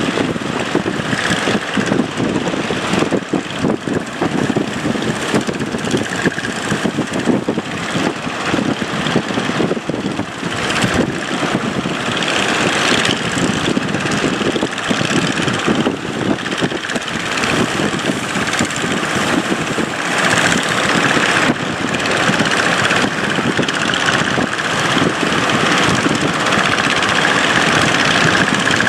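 Boat engine running steadily as the boat heads out into big waves, with a dense rushing noise over it.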